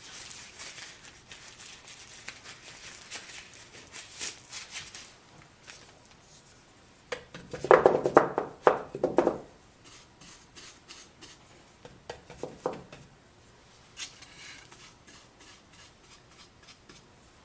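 Paintbrush strokes scraping quickly over small wooden brackets, with a loud clatter of small hard pieces knocked and handled about eight seconds in, and a shorter clatter a few seconds later.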